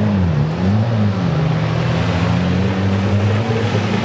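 Wreck-race banger car engine revving, its pitch rising and falling a couple of times in the first second, then holding steady.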